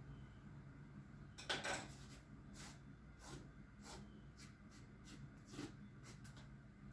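Quiet kitchen handling sounds: a short scraping rattle about a second and a half in, then scattered light clicks and taps of containers and utensils being handled.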